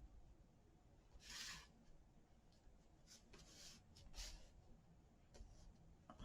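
Near silence with a few faint, short rustles of paper being handled or rubbed: about a second and a half in, around three seconds, and just after four seconds.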